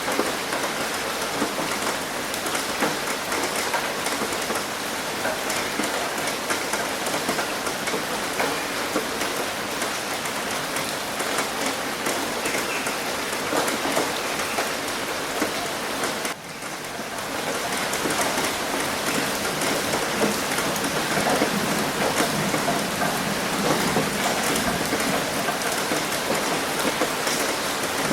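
Rain hitting a roof: a dense, steady patter of countless drop impacts. About sixteen seconds in it briefly dips in level, then builds back up.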